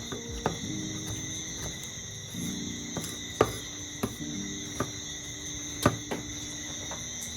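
A steady, high-pitched chorus of crickets over soft background music with held chords, with a few sharp clicks.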